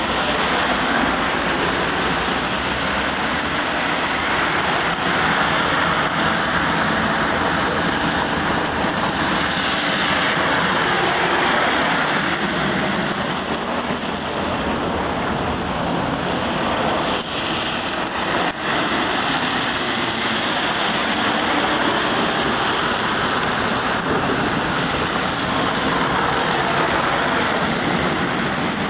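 Street traffic on wet asphalt: cars passing one after another, their engine and tyre noise swelling and fading.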